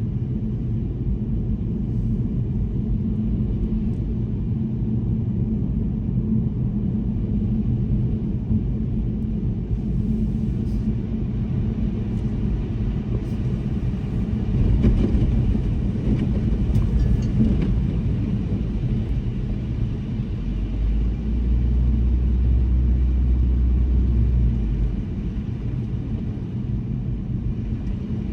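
Car driving on snowy streets: a steady low rumble of engine and tyres on the road. A deeper drone swells for a few seconds about three-quarters of the way in.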